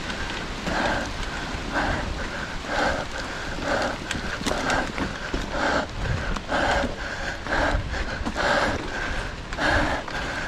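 A cyclist's heavy, rhythmic breathing while pedalling hard uphill, about one breath a second, with low wind and tyre rumble underneath.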